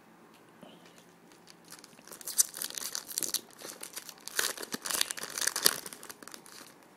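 Foil trading-card pack wrapper being torn open and crinkled: a run of sharp, crackly rustling starting about two seconds in and stopping shortly before the end.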